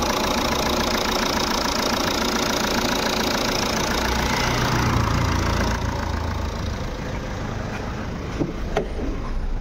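Jeep Compass 2.0-litre four-cylinder turbodiesel idling steadily with a new alternator pulley fitted; the knocking 'dug dug dug' from the failed pulley is gone and the engine runs evenly. The sound gets softer about six seconds in.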